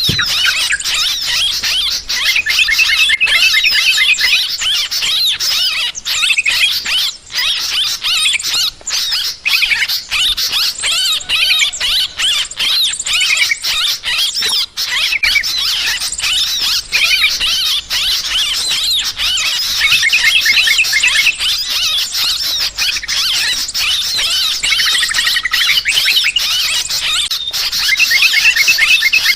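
A flock of yellow-vented bulbuls giving dense, continuous agitated chattering, harsh overlapping calls with hardly a break. These are the noisy 'ribut' calls used as a bird-trapping lure.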